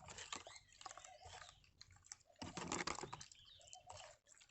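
Spoon stirring oxygen bleach powder into a bowl of hot water: faint, irregular clicks and scraping against the bowl.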